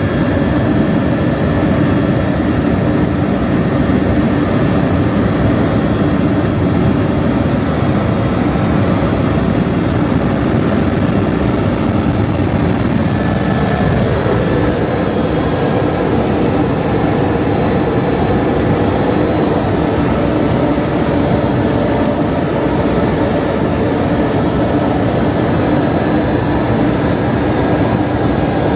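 Helicopter in flight: steady engine and rotor noise, with a slight change in tone about halfway through.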